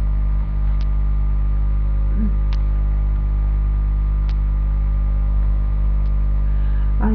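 Steady electrical mains hum in the recording, a low buzz with many even overtones, with four faint ticks evenly spaced about every second and three-quarters.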